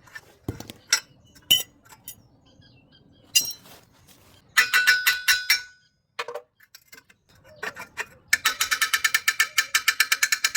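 Metal striking metal in a workshop: a few scattered clinks, a ringing burst about halfway through, then a fast, even run of ringing taps, about eight a second, in the last couple of seconds.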